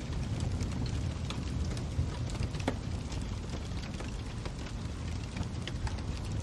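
Wood fire crackling: a steady low rumble of flames with irregular sharp pops and snaps.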